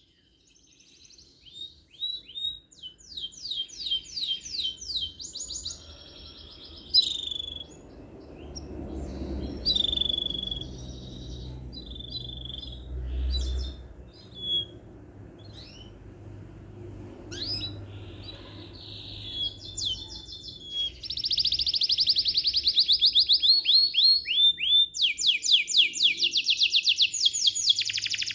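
A songbird singing in short phrases of fast trills and sweeping chirps, then, about two-thirds of the way in, breaking into a long, loud, unbroken run of rapid trilled notes.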